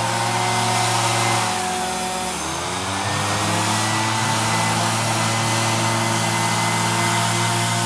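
Small two-stroke engine of a string trimmer or chainsaw running steadily; about two seconds in its speed sags and then climbs back.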